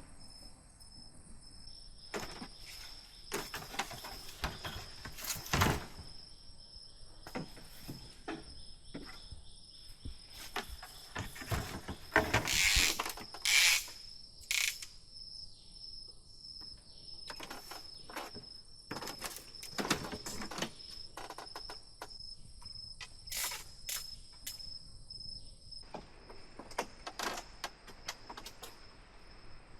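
Steady high trilling of insects such as crickets, which stops about four seconds before the end, over irregular knocks and clatters, a few of them sharp and loud.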